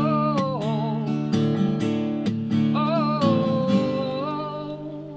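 Acoustic guitar strummed in a steady rhythm. Over it, a voice holds long, wavering notes without words, once near the start and again from the middle for nearly two seconds.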